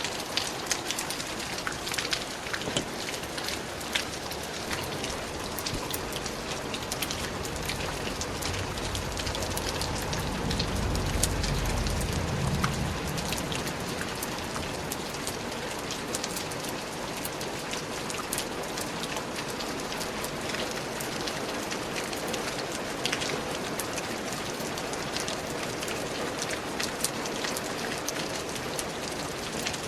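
Steady rain falling in a forest, an even hiss with many individual drops pattering close by. About ten seconds in, a low rumble swells and fades over a few seconds.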